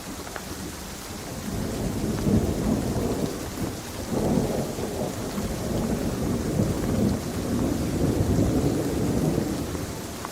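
Thunder rumbling over steady rain: a long low roll that builds about a second and a half in, swells several times, and dies away near the end while the rain hiss carries on.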